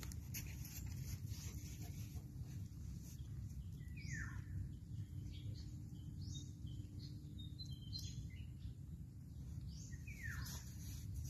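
Birds calling over a steady low background rumble: two clear down-sliding calls, about four seconds in and again near the end, with scattered short high chirps between them.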